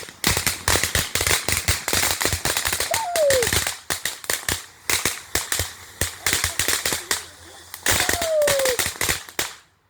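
A consumer multi-shot firework cake finishing its run: a dense, rapid string of sharp cracks and pops that stops abruptly near the end.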